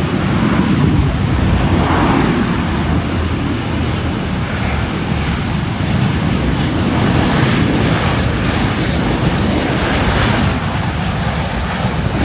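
Jet engines of a landing Boeing 737 airliner, a loud, steady, rumbling roar that swells and eases a little.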